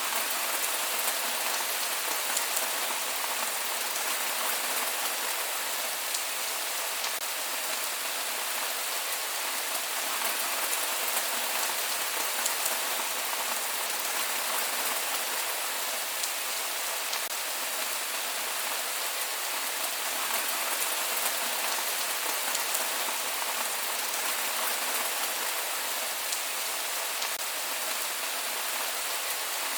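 Steady rain falling and pattering on surfaces, an even hiss with scattered drop ticks and no thunder.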